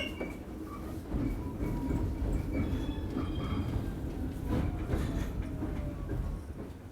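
R46 subway car rolling along the track, with a steady low rumble of wheels on rail and a few sharp clicks from rail joints. Faint motor tones slide slowly lower in pitch near the end.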